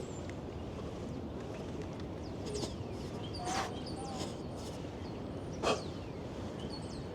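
Steady low city background noise, with a few short, sharp chirps over it, the loudest about two-thirds of the way in.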